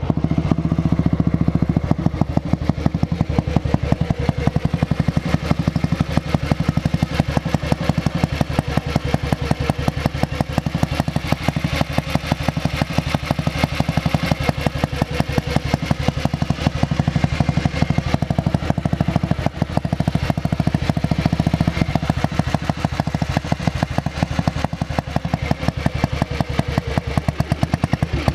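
Junak M10 motorcycle's single-cylinder four-stroke engine running under way at a steady pace, an even, fast beat of firing pulses.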